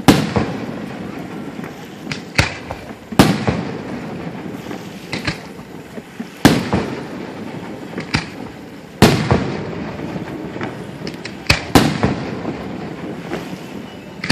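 Aerial fireworks shells bursting: about a dozen booms at irregular intervals, some in quick clusters, each trailing off in a rolling rumble.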